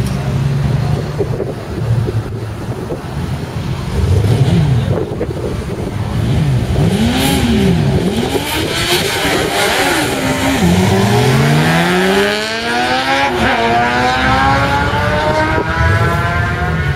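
Drag-racing sport motorcycles' inline-four engines revving up and down several times, then launching and accelerating hard, the engine pitch climbing steadily for the last six seconds with a brief dip at a gear shift.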